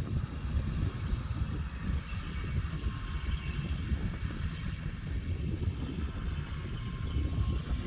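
Kubota M125X tractor's diesel engine running steadily while driving a working baler: a constant low rumble with a fainter hiss of machinery above it.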